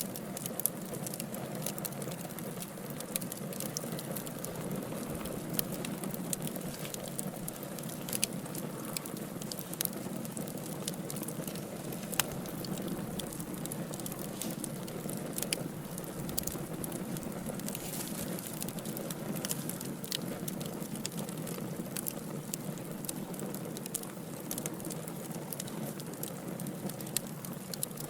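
Wood fire burning in a fireplace: a steady low rushing of flames with many small, irregular crackles and pops from the burning logs, one sharper pop about twelve seconds in.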